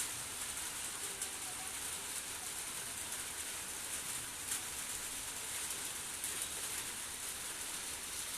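Steady monsoon rain falling, a continuous even hiss with a few sharper single drop hits, about a second in and again past the middle.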